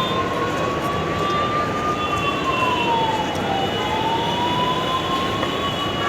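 A wailing, siren-like tone that rises slowly, drops, and starts rising again, over a steady background din.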